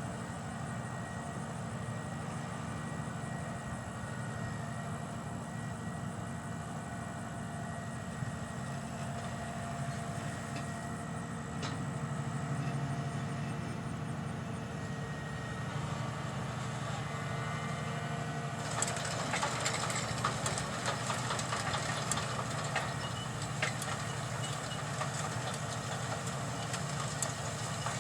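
John Deere 7200R tractor's diesel engine running steadily while pulling a peanut digger. About two-thirds of the way through, a clattering with sharp ticks joins the engine sound.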